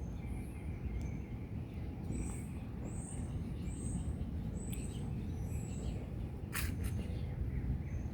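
Small birds chirping in short, high-pitched notes, several in a row partway through, over a steady low outdoor rumble, with one brief click near the end.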